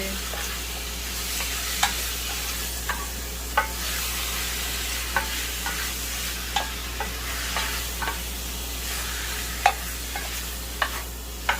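Chicken thighs frying in oil with onion and garlic, sizzling steadily, while a utensil stirring in the pan makes about a dozen sharp, irregular clicks and scrapes.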